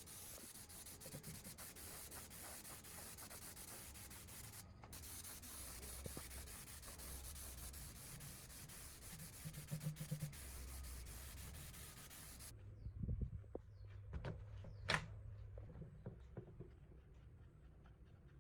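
Steady abrasive rubbing hiss, as of sanding rusty metal parts, broken once briefly and then cutting off suddenly about twelve seconds in. After that come quieter scattered clicks and taps of parts being handled, one sharp click about fifteen seconds in.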